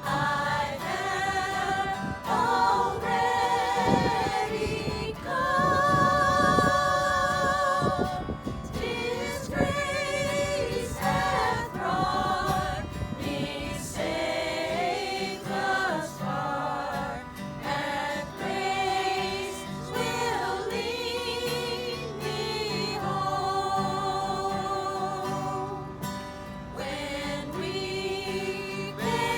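Voices singing a gospel hymn, with vibrato on the held notes.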